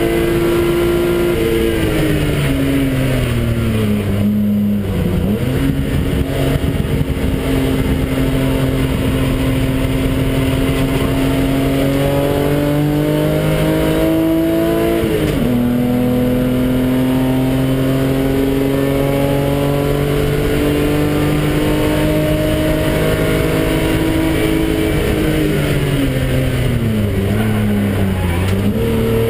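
BMW car engine heard from inside the cabin during a hard lap of a race circuit: it runs at high revs, falls in pitch under braking from about two seconds in, rises again with a blip on a downshift, then pulls with slowly climbing pitch. About halfway the pitch drops sharply at an upshift, the engine pulls again, and near the end it falls away under braking once more before a short rise on a downshift.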